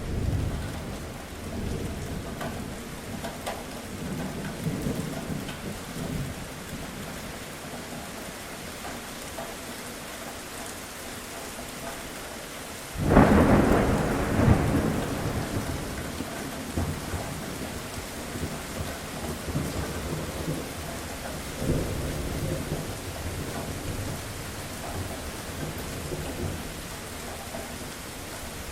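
Steady rain with rolling thunder. Low rumbles come in the first few seconds, and a sharp, loud thunderclap breaks about halfway through and rumbles on for a couple of seconds. A smaller rumble follows later.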